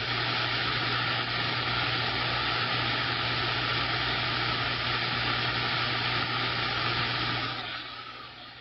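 CB radio receiver static through the radio's speaker: a steady hiss of band noise with a low hum under it, fading away near the end.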